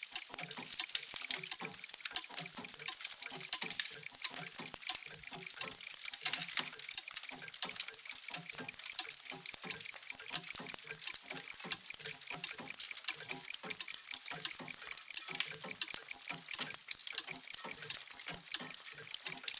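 Many mechanical clocks ticking at once and out of step with one another, a dense, steady clatter of sharp ticks with some deeper tocks mixed in.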